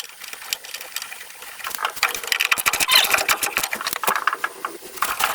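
Hand socket ratchet clicking in quick runs as a bolt is turned.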